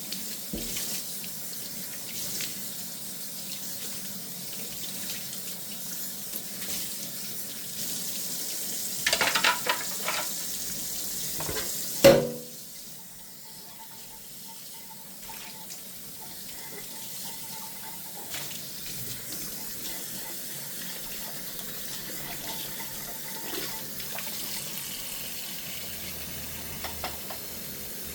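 Kitchen tap running into a sink during hand dishwashing, with a few clinks of dishes a little after nine seconds and one sharp clatter about twelve seconds in. After the clatter the running water is quieter.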